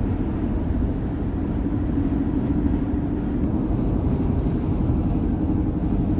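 Airstream Interstate camper van driving on the road: a steady drone of engine and road noise.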